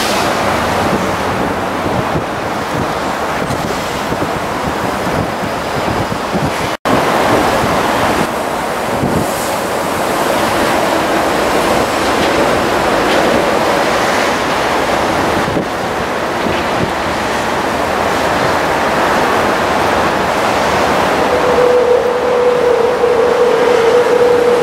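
MTR West Rail Line electric multiple-unit train rolling along the elevated track: a steady rushing rumble of wheels and running gear, cut off for an instant about seven seconds in. Near the end a steady whine joins in.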